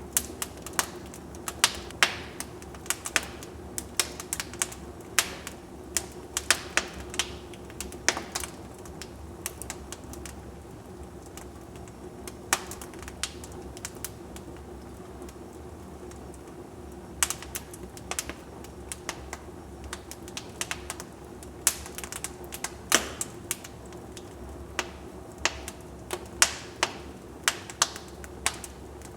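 Wood fire in a fireplace crackling: irregular sharp pops and snaps of burning logs over a steady low hiss, with a few seconds of fewer pops near the middle.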